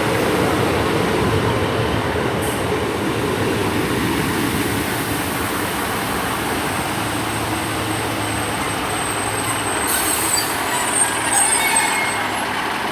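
Class 153 and Class 150 diesel multiple units running into the platform and slowing, a steady rumble of wheels and engines, with a high-pitched squeal of brakes or wheels near the end.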